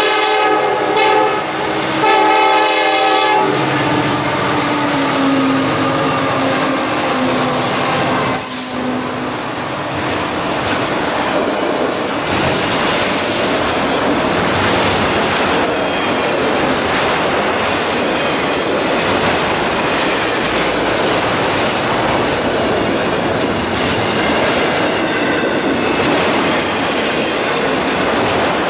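Freight train horn sounding two blasts in the first few seconds as the Norfolk Southern locomotives approach. The locomotives then pass with a lower drone, and a long string of autorack cars rolls by with a steady noise of wheels on the rails.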